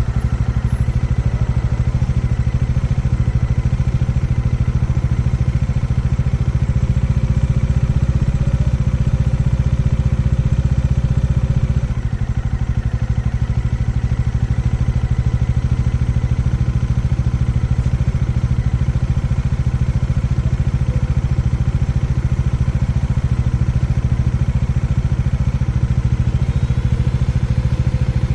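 Single-cylinder engine of a Bajaj/Kawasaki Dominar 400 motorcycle running steadily under way at expressway speed. It eases off briefly about twelve seconds in.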